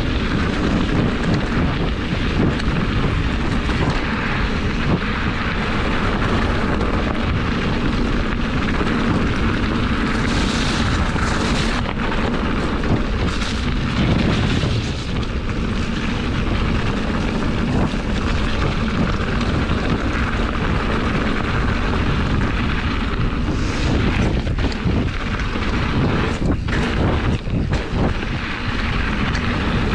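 Steady wind noise buffeting the microphone of a camera on a moving mountain bike, mixed with tyre and trail rumble, with a few brief rattles and scrapes between about ten and fifteen seconds in and again near the end.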